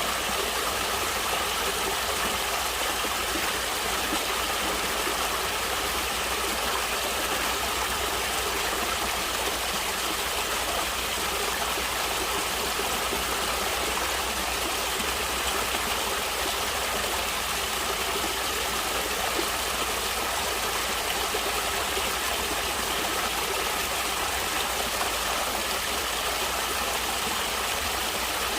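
Water of a stream flowing and rushing steadily, with a low rumble underneath and no change in level.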